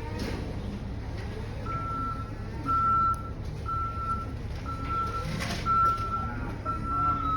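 Reversing alarm beeping about once a second in a single high tone, starting a second or two in and running almost continuously near the end, over the low steady run of a diesel truck engine.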